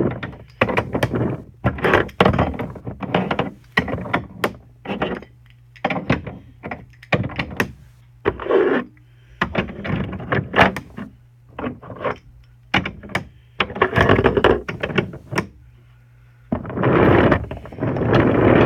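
Wooden toy train cars and track pieces being handled, a long run of irregular wooden knocks and clacks. Near the end the knocks give way to a steady rushing noise.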